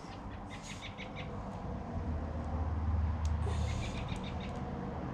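Two short runs of rapid high chirps, typical of a small bird, over a low rumble that swells in the middle and then eases.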